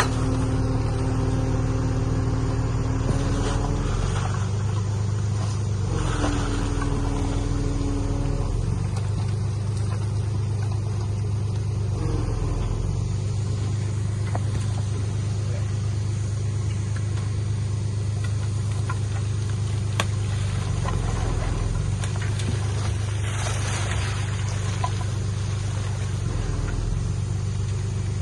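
Heavy-equipment diesel engine running steadily under load, its pitch shifting a few times, with a brief higher whine near the start and again about six seconds in.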